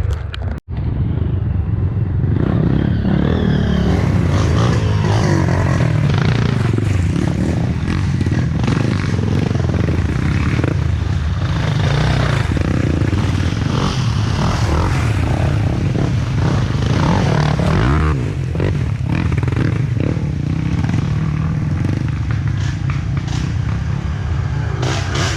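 Dirt bike engines revving unevenly, their pitch rising and falling. The sound cuts out briefly just under a second in.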